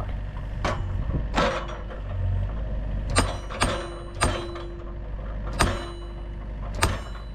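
Excavator-mounted post driver attachment striking a fence post, with sharp blows at uneven spacing, about eight in all, over the excavator's engine running. A steady whine sounds through the middle stretch.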